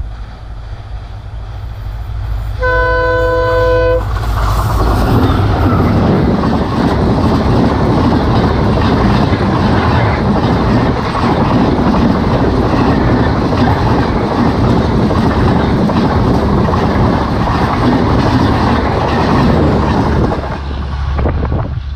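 Superfast express train on the Konkan Railway: the locomotive sounds one horn blast of a bit over a second, then the train rushes past at speed. The noise of the coaches and wheels goes on for about sixteen seconds and fades near the end.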